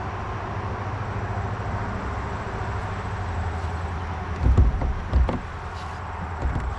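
An engine idling steadily with a low hum, and two heavy thumps about four and a half and five seconds in.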